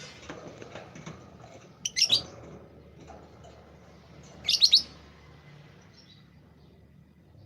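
A small bird chirping: two short bursts of rapid, high chirps, the first about two seconds in and a louder one about four and a half seconds in, with fainter chirps between.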